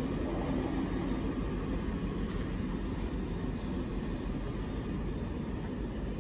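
Passenger train rolling away along the track: a steady low rumble of wheels on rails, slowly fading.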